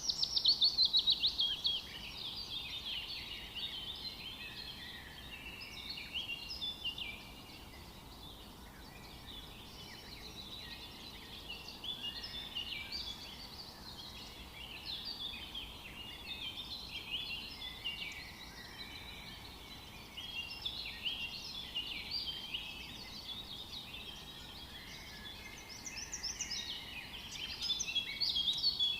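Many small birds chirping and trilling at once in a dense, continuous chorus, loudest in the first couple of seconds and again near the end.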